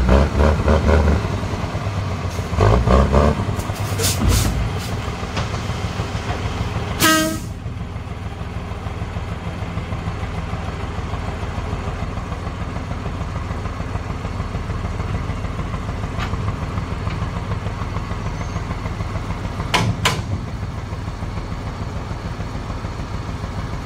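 Truck engine running steadily at low pitch, with a few louder knocks in the first few seconds. A short horn toot sounds about seven seconds in, and there are two sharp clicks near the end.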